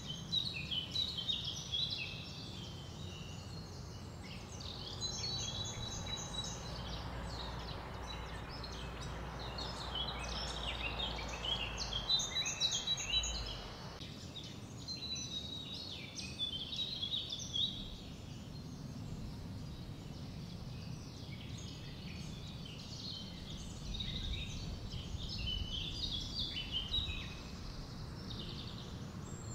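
Birds chirping and singing over a steady low background noise.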